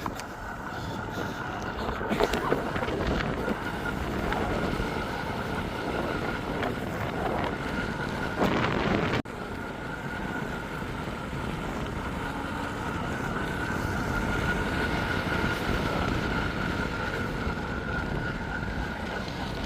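Wind buffeting the microphone outdoors, a steady rushing noise with a faint constant whine underneath. It cuts off abruptly for an instant about nine seconds in.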